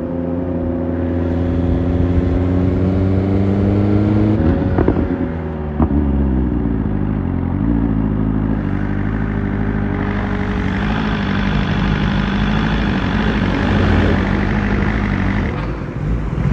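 Motorcycle engine running under way. Its pitch eases down over the first few seconds, then climbs again about six seconds in as it pulls away, and settles to a steady pace.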